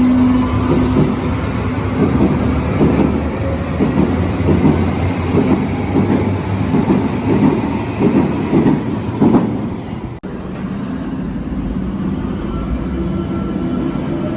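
Berlin U-Bahn large-profile train running on the track, its wheels clattering over rail joints in a quick irregular run for most of the first nine seconds. The sound breaks off for an instant about ten seconds in, and a steadier running rumble follows.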